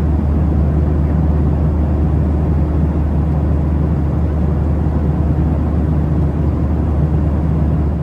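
Steady low rumble inside a Boeing 737-800's passenger cabin in flight: engine and airflow noise holding an even level with a constant low hum.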